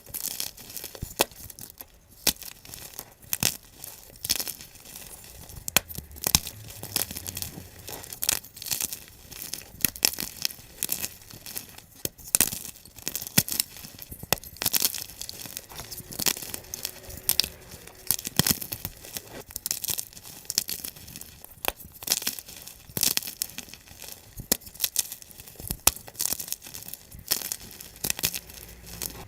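Blocks of gym chalk being crushed, a dense, fast run of crunches and crackles, sped up.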